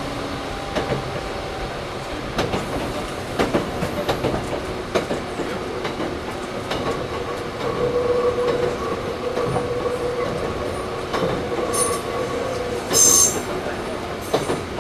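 Interior running sound of a Toyohashi Railway 1800 series (ex-Tokyu 7200 series) resistance-controlled motor car: a steady rumble with wheels clicking over rail joints. A steady whine comes in about halfway through, and a brief loud high squeal sounds near the end.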